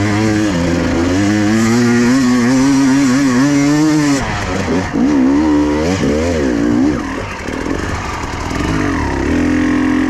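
Enduro dirt bike engine revving hard. The revs are held high for about four seconds, then the throttle is blipped so the engine rises and falls several times, and it settles to a steadier pull near the end.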